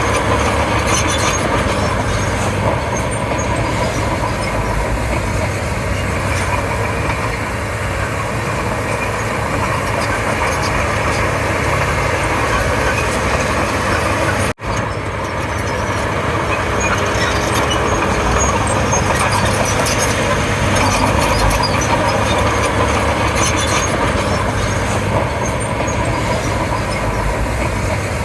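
Komatsu D31P bulldozer's diesel engine running steadily while working, cutting out for an instant about halfway through.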